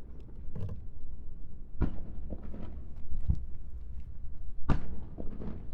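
Aerial firework shells bursting: a run of dull booms with echoing tails over a low rumble, the strongest about two seconds in, after three seconds and near five seconds.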